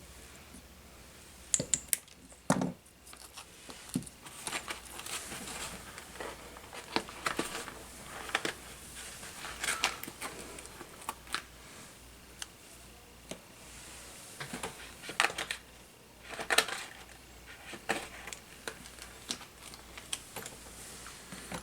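Hand work at a workbench repairing a drone frame: scattered clicks, taps and crinkling rustles of small parts and tools being handled. The sharpest knocks come about two seconds in and again around fifteen to seventeen seconds.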